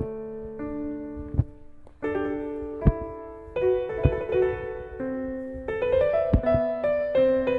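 Background piano music: held notes and chords changing every half second or so, with a few soft low thumps at irregular moments.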